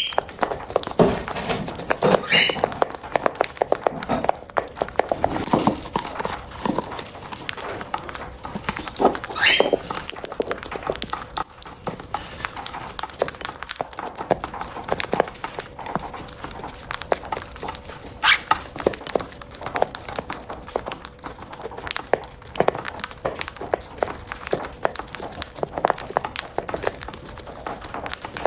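Cockatiels eating: an irregular stream of small beak clicks and taps as they peck and crack food, with a few short rising chirps scattered through.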